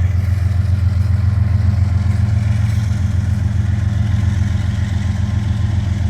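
GE ES40DC diesel locomotive's V12 engine running steadily with a deep, rapidly pulsing hum.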